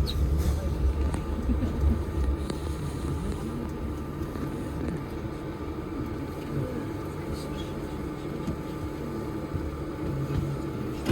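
Low rumble inside a Moscow monorail train at its terminal station, easing off after the first few seconds, with faint voices in the background.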